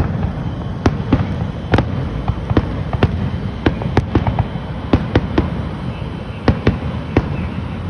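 Fireworks going off: a string of sharp bangs and pops at irregular intervals, over a steady low rumble.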